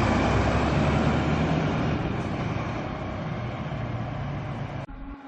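Large vehicle's engine running, slowly getting quieter, then cut off sharply about five seconds in.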